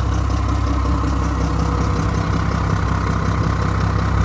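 Mack MR688S truck's diesel engine idling steadily. Its idle is not smooth and sounds like an exhaust leak, which the seller puts down to a cracked exhaust manifold.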